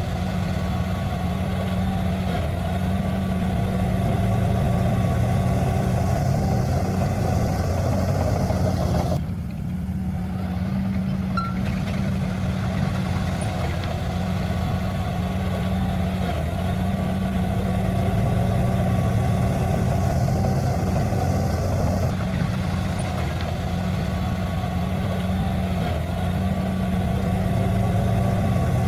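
Heavy diesel engine of earthmoving equipment running steadily at low revs, with the higher part of the sound briefly dropping away about nine seconds in.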